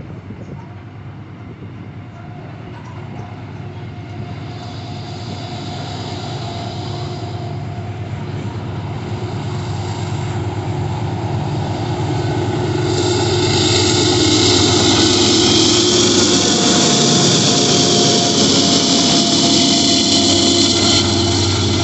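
Diesel locomotive drawing nearer and growing steadily louder with a steady engine hum, then running loud and close from about two-thirds of the way in, with a hiss of train noise on top.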